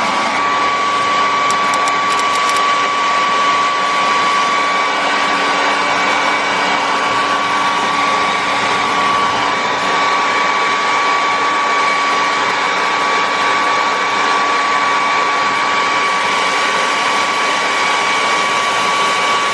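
Hair dryer blowing steadily, a rush of air with a high whine running through it, drying a freshly bathed dog's fur; it cuts off at the end.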